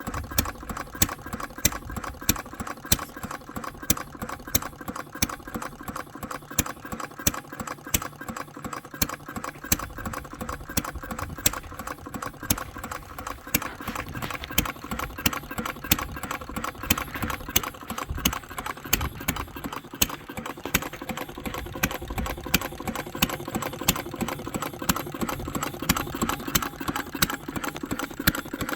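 Replica of Henry Ford's 1893 single-cylinder engine running steadily after a timing adjustment: a rapid, even ticking of mechanical clicks, with a louder beat about once a second.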